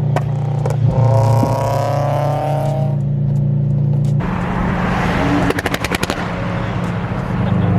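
Sports-car engine and exhaust running steadily under a cruise, with a rising whine about a second in. Around five and a half seconds in comes a quick run of sharp exhaust pops and crackles.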